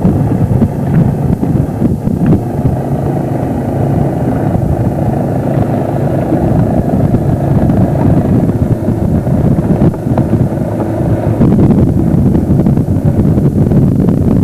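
Steady low rumble of wind buffeting a camcorder microphone over a motor running at a constant speed, most likely a boat's engine.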